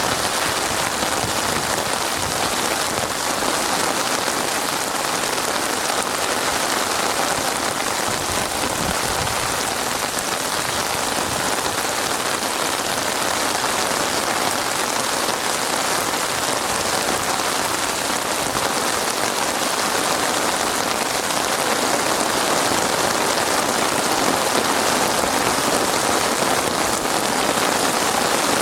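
Heavy rain falling steadily in a dense, even hiss of countless drops, with no thunder or other sounds standing out.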